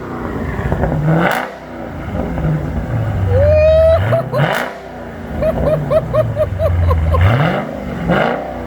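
Dodge Challenger 1320's 392 HEMI V8 revved from idle three times, each rev rising and falling back, through an exhaust with its mid mufflers deleted, which gives a louder, deeper note. A short rising whistle and a quick string of chirps are also heard in the middle.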